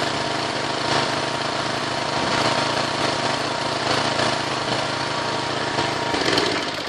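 Small single-cylinder four-stroke petrol engine from a 6.5 hp walk-behind tractor, running steadily as the power unit of a VAZ 2109 car.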